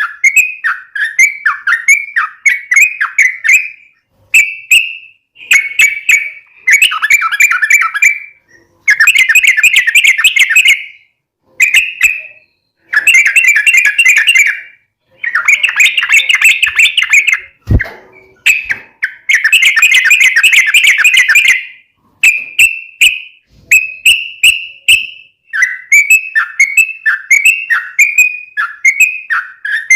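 Yellow-vented bulbul (trucukan) singing loudly: strings of short falling bubbly notes, broken in the middle by several long, rapid chattering runs. One sharp click comes just past halfway.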